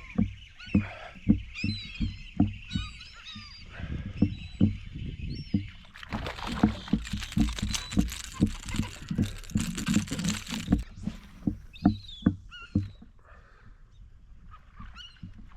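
Steady low knocks on a kayak's hull, about two or three a second, while a hooked fish is fought, with a burst of water splashing for several seconds midway. Birds call with short chirps overhead throughout.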